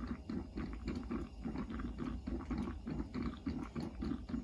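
Coffee percolator perking on the stove, a steady gurgling pulse about three or four times a second.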